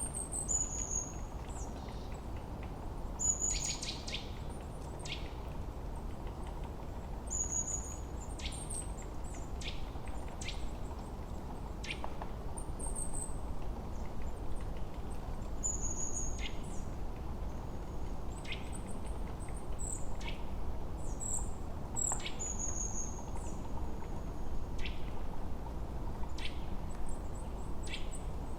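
Several songbirds chirping and calling on and off, in short high notes and quick falling whistles, with a brief rapid rattle about four seconds in. Under them runs a steady low background hush.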